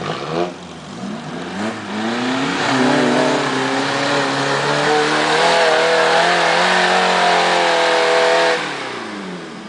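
Off-road 4x4's engine revving hard under load: a few short blips of throttle, then the revs climb and are held high for several seconds before dropping back off near the end.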